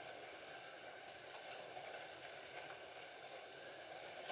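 Scalextric slot cars running on the track: a faint, steady whir of their small electric motors with a few light clicks.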